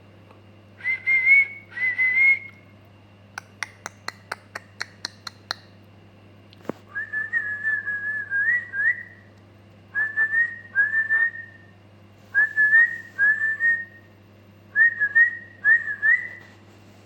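Whistled phrases, repeated in pairs, each ending on a short upward flick, broken up a few seconds in by a quick run of about ten sharp clicks and a single click.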